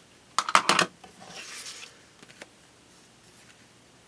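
Scrapbooking paper and tools being handled on a desk. About half a second in there is a quick run of sharp clicks, then a short soft rustle and a couple of faint ticks.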